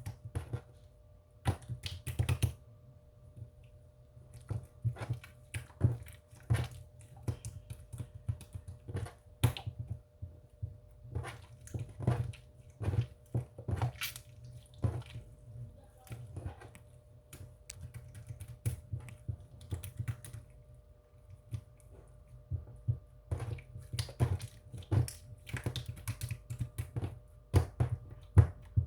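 Irregular sharp clicks and crunches, several in quick clusters and then short pauses, over a faint steady hum.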